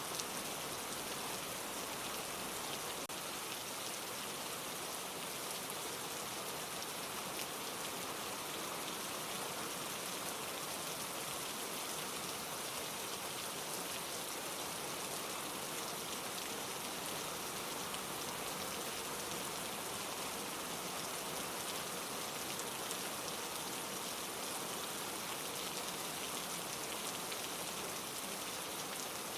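Steady rain falling on leaves, a continuous even patter of many fine drops.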